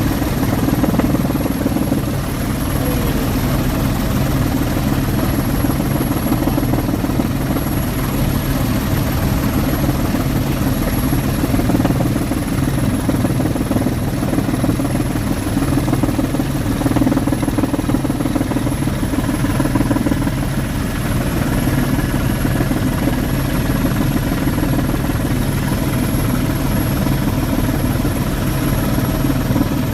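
Helicopter in flight: steady, loud rotor and engine noise with a thin high whine over it.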